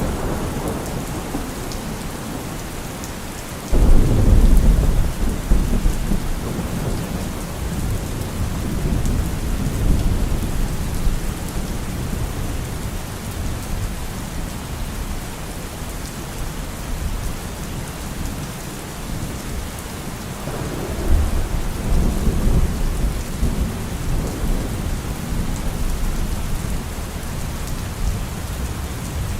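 Steady heavy rain with thunder: a sharp deep thunderclap about four seconds in that rolls off over several seconds, and a second rumble of thunder about twenty seconds later.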